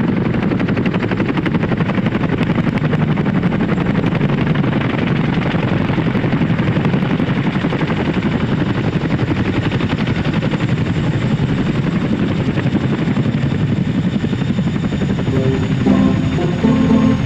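A steady, fast chopping mechanical noise like a vehicle sound effect; music with pitched notes comes in near the end.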